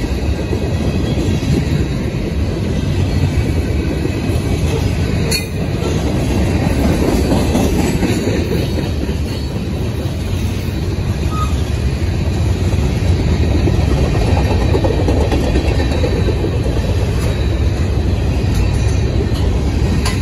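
Freight train of tank cars and gondolas rolling past on the near track: a loud, steady noise of steel wheels on rail, with a single click about five seconds in.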